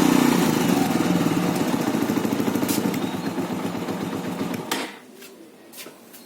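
Bajaj Avenger 220 Street's single-cylinder engine running with a rapid pulsing beat that slowly fades, then cut off suddenly about three-quarters of the way in. A few faint clicks follow.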